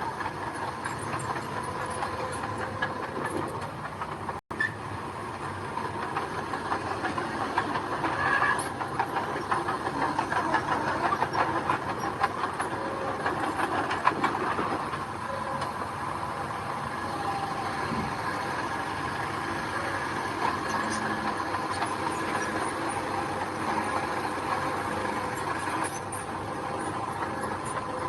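Mini bulldozer's diesel engine running steadily with clattering steel tracks and gravel scraping under the blade. The working noise is busier for several seconds in the middle.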